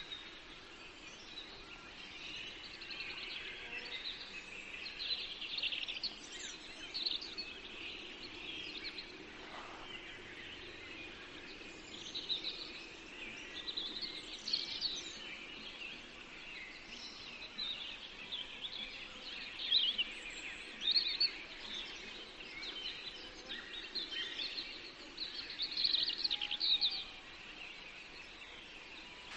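Forest ambience of several small songbirds chirping and singing at once, many short overlapping calls, over a steady background hiss.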